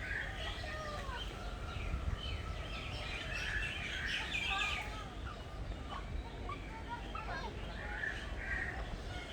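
Many birds chirping and calling at once, short overlapping calls and trills, over a steady low rumble.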